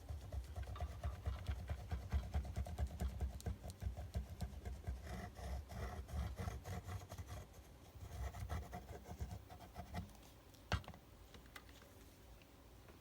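Paper and cardstock being handled on a craft table: rapid, irregular scratchy rubbing and rustling for about ten seconds. A single sharp click follows about a second later.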